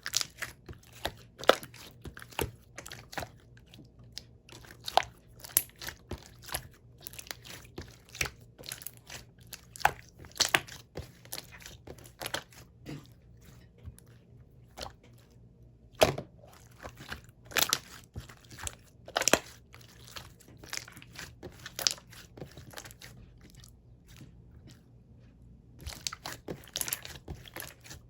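Slime being squeezed and worked by hand, giving irregular sharp clicks and pops with a few louder pops scattered through.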